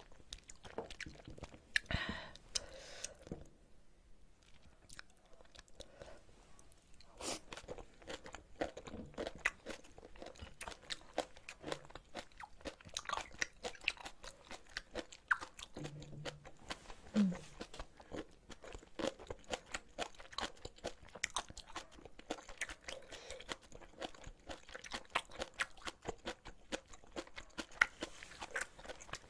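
A person chewing spicy ramen and kimchi close to the microphone: a steady run of small crunches and wet mouth clicks.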